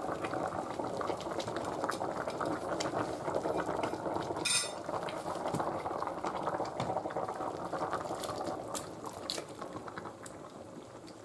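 Food cooking in a pot on the stove: a steady crackling sizzle and bubble. A single utensil clink against the pot comes about four and a half seconds in, and the sound eases off slowly toward the end.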